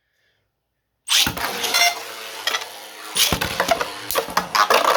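About a second of silence, then two 3D-printed Beyblade tops are launched into the stadium. There is a sudden ripping launch, then clattering with several sharp hits as the tops strike each other and the stadium walls, and a spinning whir sets in near the end.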